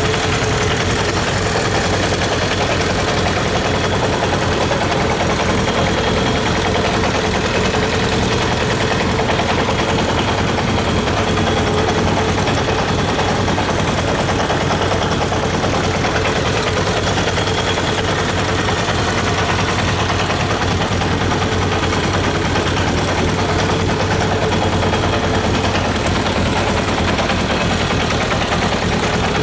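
1997 Kawasaki Zephyr 750RS's air-cooled inline-four engine idling steadily.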